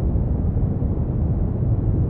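Brown noise: a steady, deep rumbling hiss, strongest in the bass and falling away toward the treble, with no change.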